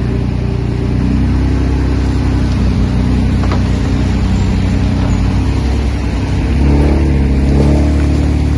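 Heavy diesel engine of an earthmoving machine running steadily, then working harder and louder about two-thirds of the way through.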